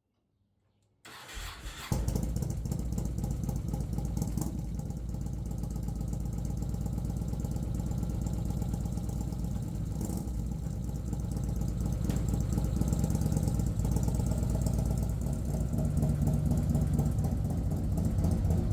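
Yamaha Road Star motorcycle's V-twin engine being started: brief cranking about a second in, then it catches and idles steadily, getting a little louder near the end.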